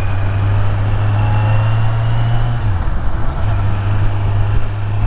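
Kawasaki Z900's inline-four engine running at a steady cruise, over a rush of wind noise. The engine note drops briefly about three seconds in, then picks back up.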